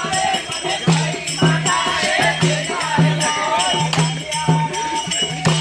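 Live acoustic garba music without a sound system: voices singing a folk song over a steady drum beat, about two beats a second, with jingling rattle-type percussion.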